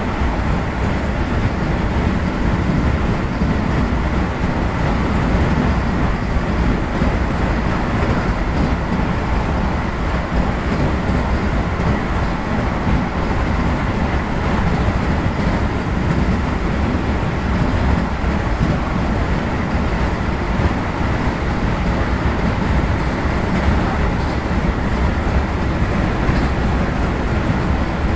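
Vande Bharat Express electric train running, a steady rumble of wheels on the track with an even hiss above it.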